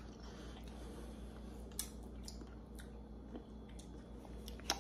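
Faint wet chewing of a soft fruit in the mouth, with a few small sharp clicks, the loudest near the end.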